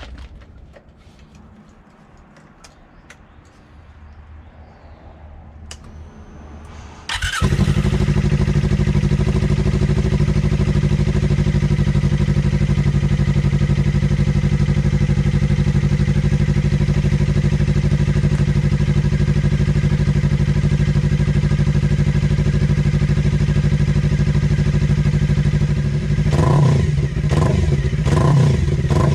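Suzuki GSX250R's parallel-twin engine through an LCI GP stainless slip-on muffler: a few faint clicks, then the engine starts about seven seconds in and settles into a steady idle. Near the end the throttle is blipped several times, the exhaust note briefly rising with each.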